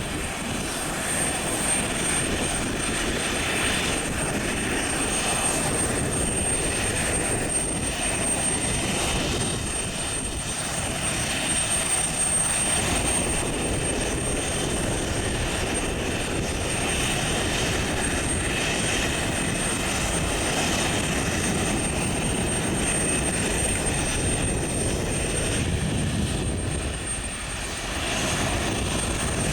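Turbofan airliner engines running steadily, a continuous roar with a thin high whine over it.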